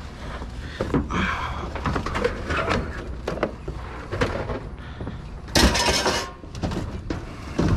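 Scattered knocks and clatter of discarded junk being handled and moved, with a louder scraping, rustling burst about five and a half seconds in. A low steady rumble runs underneath.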